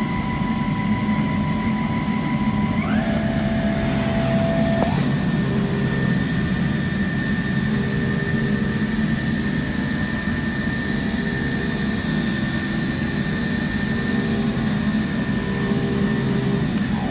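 German automatic fabric-cutting machine running: a steady, loud rushing noise over a low hum, with thin motor whines that glide down in pitch at the start, rise again about three seconds in, then hold steady.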